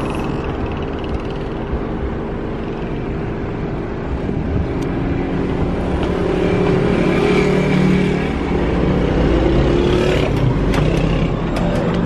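Road traffic: a motor vehicle's engine running, growing louder from about halfway through as it comes close. A few sharp clicks near the end.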